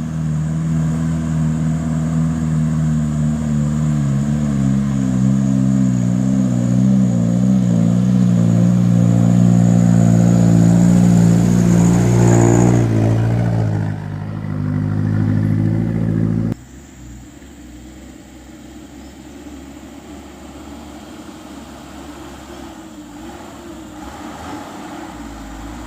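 Heavily loaded palm-fruit truck's diesel engine labouring up a steep climb, growing louder as it approaches, its pitch sinking about 13 seconds in as it lugs under the load. The sound drops off abruptly about 16 seconds in, leaving a quieter engine rumble.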